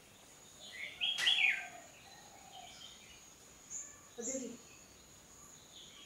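Birds chirping: a quick cluster of sweeping high chirps about a second in, the loudest sound, then a few shorter calls around four seconds in, over a faint steady high tone.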